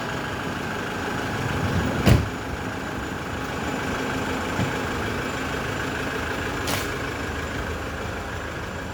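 Steady running noise of a vehicle engine or nearby traffic, with a sharp knock about two seconds in and a fainter click later.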